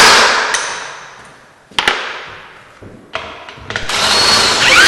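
Power impact wrench driving out 7/16-inch lag bolts that hold a garage-door spring assembly to the wall, in two loud runs: the first fades away over the first second or so, and the second starts a little before the end.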